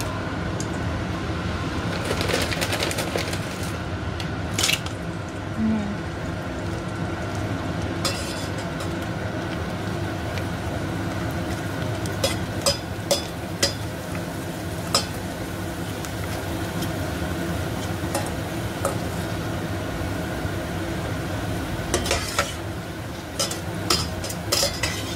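Kerupuk crackers sizzling as they fry in hot oil in a stainless steel pot, with a spatula stirring them and knocking against the pot now and then, more often near the end.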